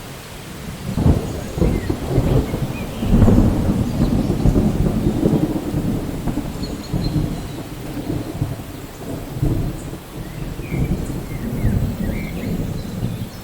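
Thunder rolling over steady rain: a long low rumble that swells about a second in, is loudest around three seconds, and rumbles on unevenly before easing near the end.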